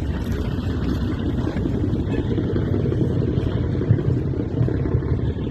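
Steady low rumble of a moving narrow-gauge train, with no separate knocks or whistles standing out.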